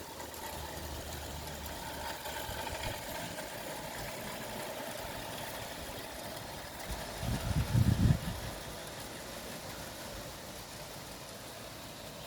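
A light railway locomotive's engine running steadily, with a brief loud low rumble about seven seconds in.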